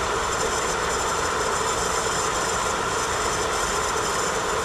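Outdoor wood furnace running with a steady mechanical whir and a faint high whine.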